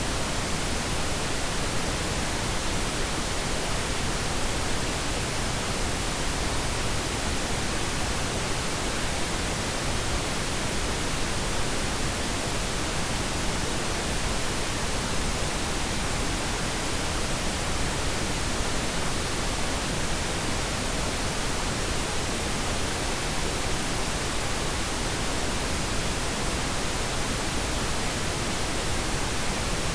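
Pink noise: steady, even synthetic hiss that never changes.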